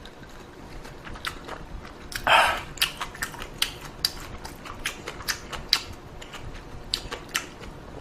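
Close-miked chewing: scattered sharp wet mouth clicks and crunches, with one louder, longer noise a little over two seconds in.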